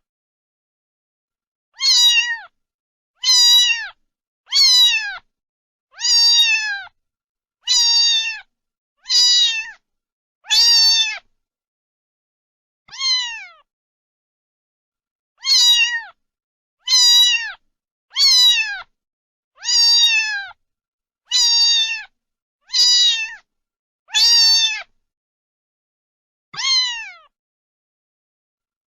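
A cat meowing over and over, about sixteen short meows a second or two apart, each one falling in pitch, with a few longer pauses.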